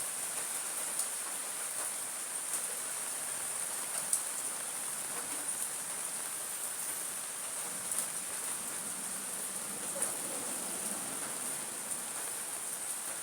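Steady rain falling, an even hiss with a high, steady insect drone over it and a few sharp drops tapping now and then.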